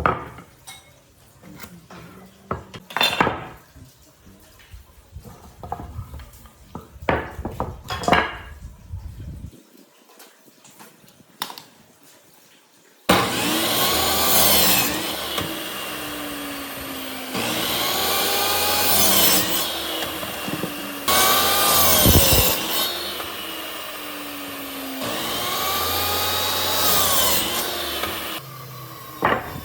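Scattered knocks and scrapes of wood being handled, then about 13 seconds in, wood being sawn in repeated long passes that run until near the end.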